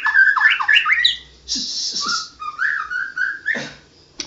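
White-rumped shama (murai batu) singing: a run of quick whistled notes sliding up and down, with a short harsh rasping burst about a second and a half in, then a brief pause near the end. The song lacks its loud 'tembakan' bursts, which the keeper puts down to the bird being in heavy moult.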